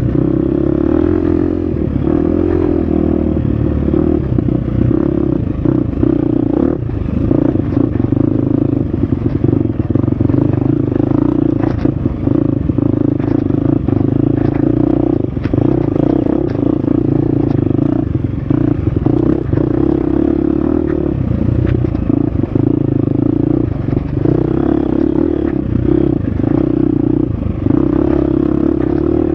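Husqvarna FX350 four-stroke single-cylinder dirt bike engine running under load, the throttle easing off and opening again every few seconds, with frequent short knocks and rattles from the bike over rough trail.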